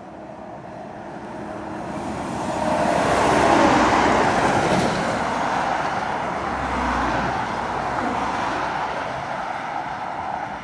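Heavy truck pulling up a hill and passing: engine and tyre noise swell to a peak about three to four seconds in, stay loud, then ease off slowly as it moves away.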